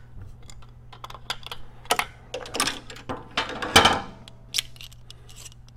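Metal tools and parts clicking and clinking irregularly as the bearing puller and the pulled cam bearing are handled, with a couple of longer scrapes in the middle. A steady low hum runs underneath.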